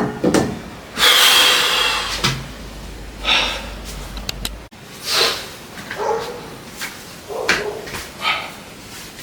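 A person breathing hard during a weight-training set, in short forceful breaths about a second apart, the first a longer hissing exhale about a second in.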